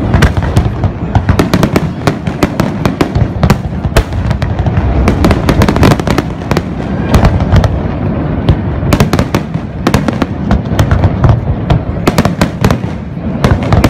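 Large fireworks display: a dense, continuous barrage of aerial shell bursts and crackling stars, many sharp bangs a second over a steady low rumble.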